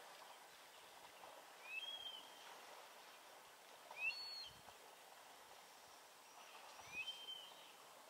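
A bird repeating a short whistled call three times, a couple of seconds apart. Each call slides up and then levels off, over a faint steady background hiss.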